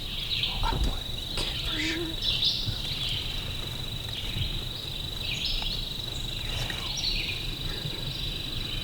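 A steady, high, unbroken insect trill, with scattered short songbird calls over it.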